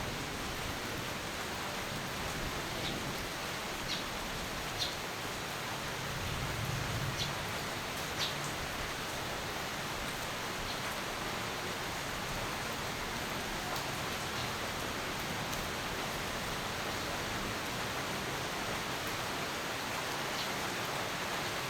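Steady rainfall hissing, with a few separate drops ticking sharply in the first half and a soft low rumble swelling briefly about six seconds in.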